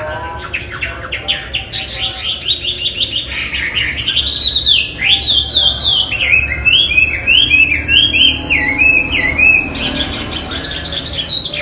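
Chinese hwamei singing a loud, varied song: fast runs of rapid high notes, then a string of slurred whistled notes stepping down in pitch, and fast notes again near the end.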